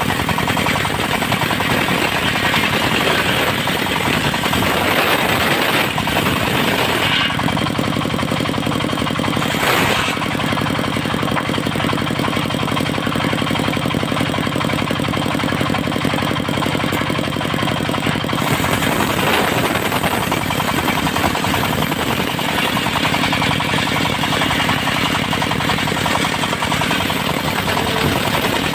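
Engine-driven portable circular sawmill running continuously with a rapid, chattering engine note. The tone shifts in the middle section, as if the load on the saw changes, with one sharp knock about ten seconds in.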